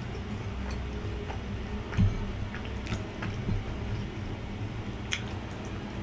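Wet chewing and biting while eating grilled isaw, with a few sharp mouth clicks, the loudest about two seconds in.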